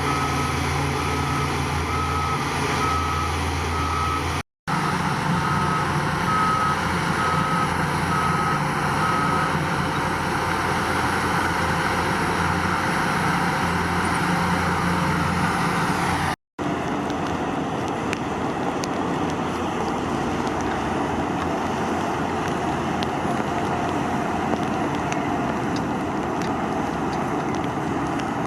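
Heavy diesel construction machinery running, with a reversing alarm beeping about once a second through the first third, then stopping. The sound breaks off twice in sudden short gaps, and after the second one the machine noise is rougher and hissier.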